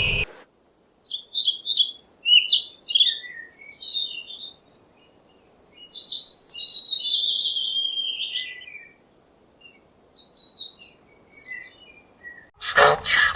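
A bird calling: several short high chirps, then a longer warbling phrase that falls in pitch, then more chirps. Near the end a different, louder, rhythmic sound cuts in.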